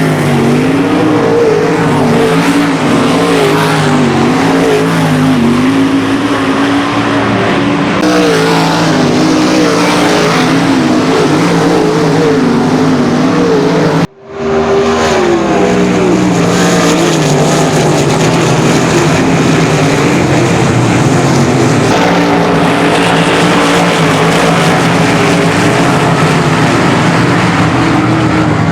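A pack of sprint cars' V8 engines racing on the track, several engines at once with the pitch rising and falling as the drivers get on and off the throttle. The sound breaks off for a split second about halfway through, then carries on.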